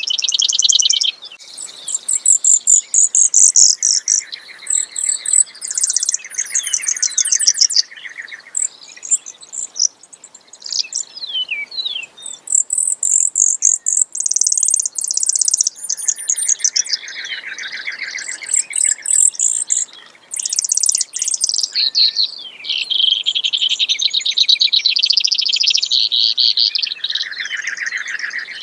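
Brewer's sparrow singing: long, rapid trills that shift from high to lower pitch and back, one series running into the next with brief pauses.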